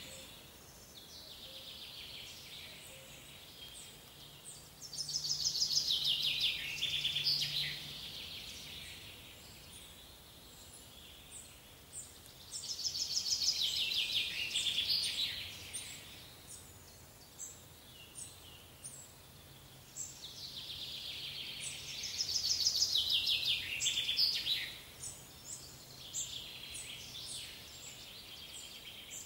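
A songbird singing: trilled phrases of rapid high notes, each two to three seconds long, repeated about every seven or eight seconds over a quiet outdoor background.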